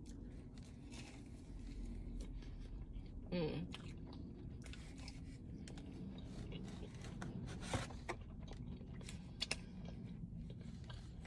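A person chewing a soft mochi donut with her mouth close to the microphone: faint mouth sounds with a few small clicks, and a brief hummed vocal sound about three seconds in.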